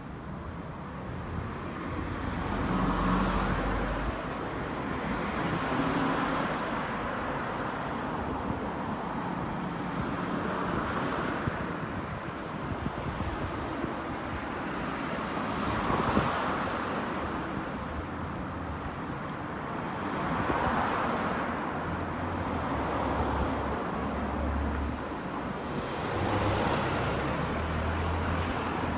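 Road traffic: cars passing one after another, each swelling and fading away, roughly every five seconds over a steady street hum.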